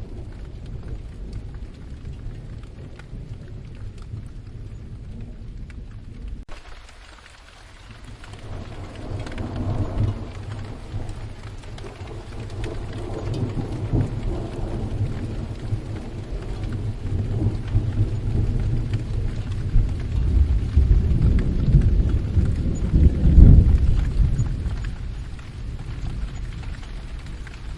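Steady rain with a long, deep roll of thunder. The rain hiss turns suddenly brighter about a quarter of the way in. The thunder then swells slowly, peaks near the end, and eases off.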